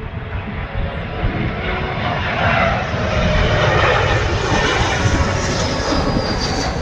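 Airliner engines passing close by, a steady roar that swells about two seconds in, with a thin high whine slowly falling in pitch in the second half.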